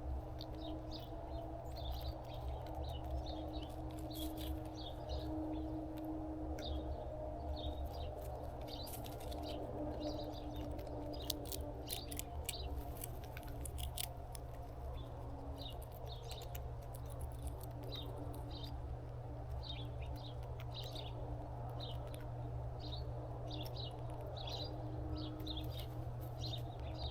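Small birds chirping: many short, high chirps repeated throughout, with a few sharp clicks in the middle, over a steady low hum.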